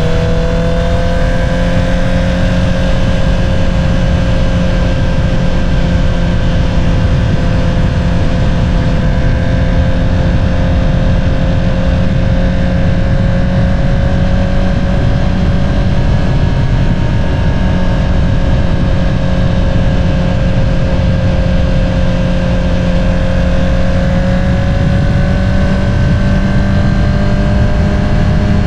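2022 Honda CBR650R's inline-four engine running through an Akrapovič single-outlet exhaust at a steady cruise. Its pitch holds nearly level, dips a little mid-way and rises gently near the end as the bike picks up speed.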